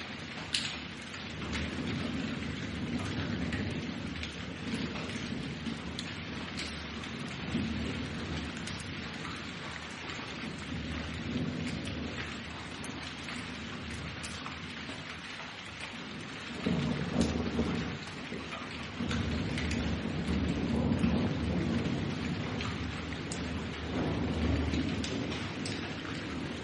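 Thunderstorm: steady heavy rain falling, with low rolling thunder that swells and fades, loudest about two-thirds of the way through.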